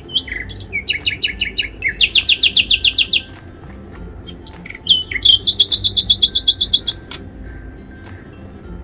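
A bird chirping in fast trills of rapidly repeated high notes: three main runs of about a second each, with short single chirps between them and quieter after about 7 seconds.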